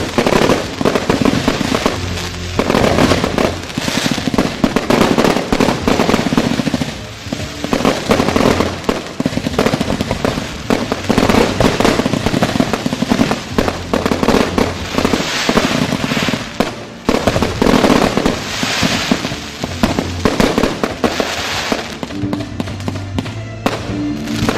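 Fireworks display from firework batteries: a continuous barrage of rapid bangs and crackles, with music playing underneath.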